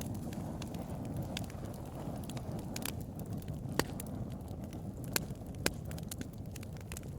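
Wood fire burning: a steady low rumble of flames with irregular sharp crackles and pops, the loudest snaps a little under 4 seconds in and again near 6 seconds.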